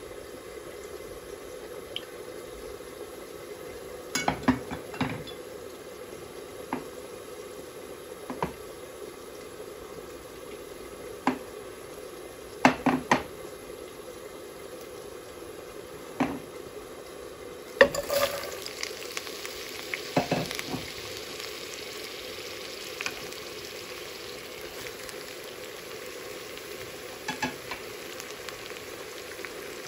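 Oil heating in a nonstick pot with scattered sharp ticks and knocks over a steady low hum. About two-thirds through, sliced jackfruit seeds and chopped onion go into the hot oil and start sizzling, with a few clinks of stirring.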